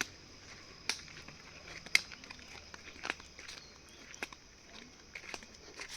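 Footsteps on a forest path: sharp crunching steps about once a second, over a faint steady high hiss.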